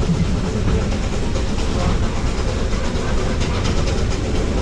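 Steam train rolling along the track as heard from aboard: a steady rumble with faint clicking of wheels over the rails.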